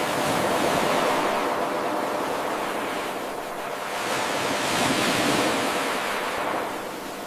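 Ocean surf washing on a shore: a continuous rushing hiss that swells at the start and again about five seconds in, easing off between the surges.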